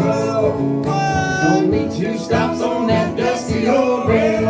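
Country band playing live: strummed guitars and plucked strings with singing, a long held note about a second in.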